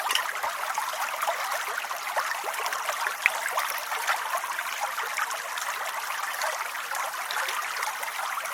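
Steady rain: a continuous hiss of many small drops falling, without pause or change.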